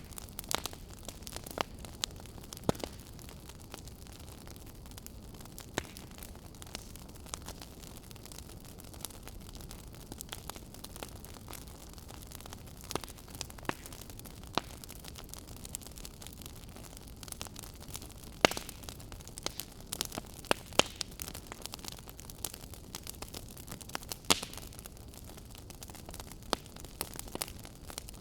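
Wood fire crackling in a fireplace: irregular sharp pops and snaps over a steady low hiss, with a few louder snaps scattered through.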